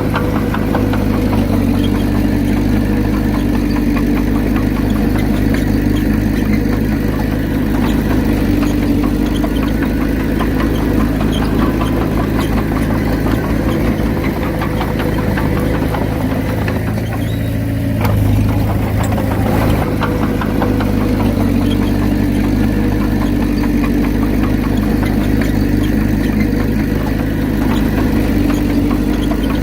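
Diesel engine of a Komatsu D31P bulldozer running steadily under work. A little over halfway through, the engine note dips briefly, then picks up again.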